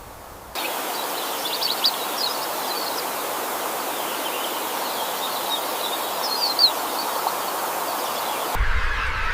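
Steady rush of running water with small birds chirping over it in short bursts, a couple of times.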